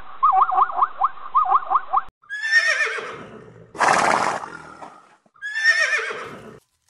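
A zebra calls in a fast run of short barking yelps, about five a second, for about two seconds. Then a horse whinnies, gives a loud snort, and whinnies a second time.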